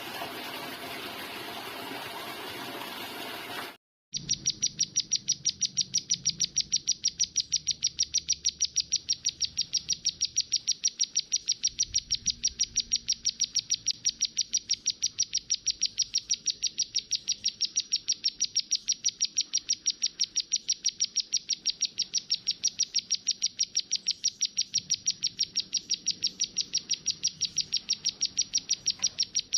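A few seconds of hiss, then a small songbird's high, rapid chirp, repeated evenly several times a second without a break.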